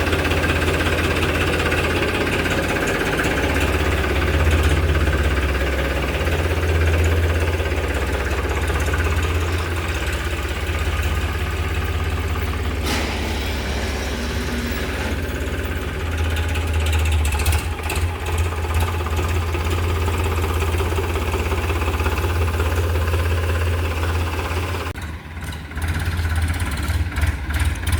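Tractor diesel engine running at a steady idle with a deep hum. It dips briefly near the end, then comes back with an uneven pulsing beat.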